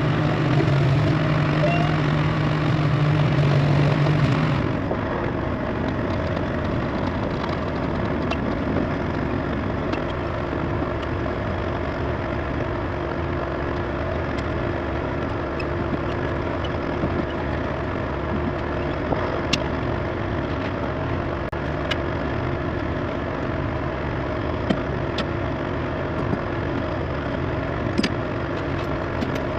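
Diesel engine idling steadily, with a deeper steady note that drops away about four and a half seconds in and a few light clicks scattered through.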